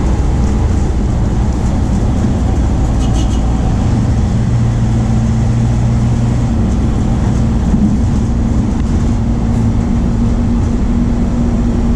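The MAN D0834 four-cylinder turbodiesel of a VW 17.230 OD bus running steadily as the bus drives, with a loud, even drone whose engine note shifts slightly partway through.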